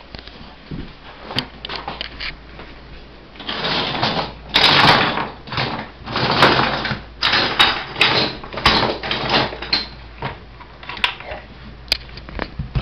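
Toy monster trucks being handled and clattering: irregular sharp clicks and knocks with short bursts of rattling and scraping, busiest in the middle of the stretch.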